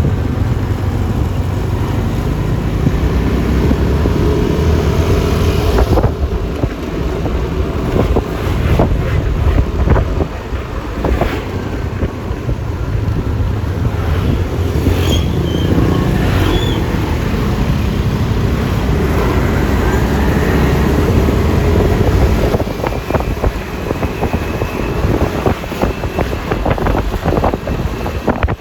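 Riding noise from a Yamaha Lexi LX 155 scooter, a 155 cc single-cylinder CVT scooter: wind buffeting the microphone over the engine and tyre noise, with passing traffic. A few brief high chirps come about halfway through.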